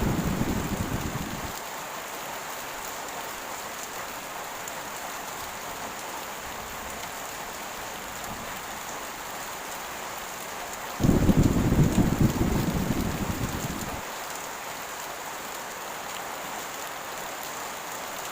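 Heavy rain with a steady hiss throughout. A low thunder rumble fades out in the first second and a half, and a second rumble starts abruptly about eleven seconds in and dies away over about three seconds.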